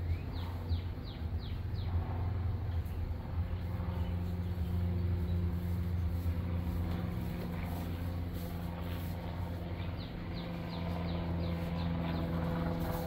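A steady low hum, with a songbird giving a quick run of falling chirps near the start and again about ten seconds in.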